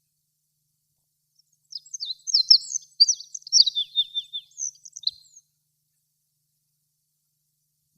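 Olive-backed pipit singing one song phrase of about three and a half seconds: a fast run of high, rapid notes and trills, some dropping in pitch, in a quick jumbled series.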